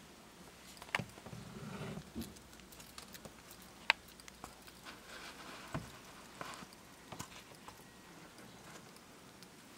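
Light, scattered clicks and scrabbling taps in a plastic feeding tub as baby bearded dragons and dubia roach nymphs move about, with one sharp click about four seconds in.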